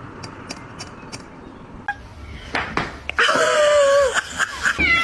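A cat meowing: one drawn-out cry with a slightly falling pitch about three seconds in, and a second, higher cry just before the end. Before the cries there is a steady hiss with a few light clicks.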